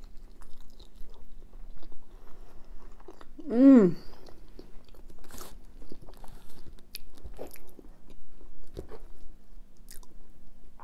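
A person chewing a mouthful of chilli cheese fries, with small wet mouth clicks and smacks. About three and a half seconds in comes a short hummed "mmm" that falls in pitch.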